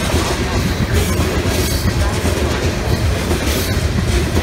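Freight train of open-top coal cars rolling past close by: a steady rumble of steel wheels on the rails, with the clickety-clack of wheels crossing rail joints.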